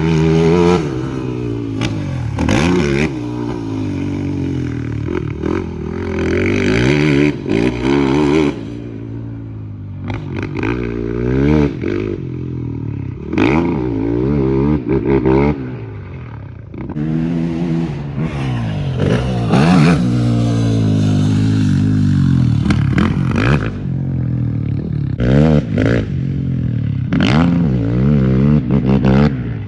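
Motocross dirt bike engine revving hard and backing off again and again, its pitch climbing and dropping every second or two as the rider works the throttle around the track.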